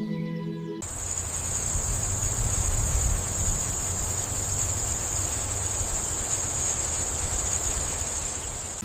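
Crickets trilling in a continuous high-pitched drone over a low rumble, starting about a second in.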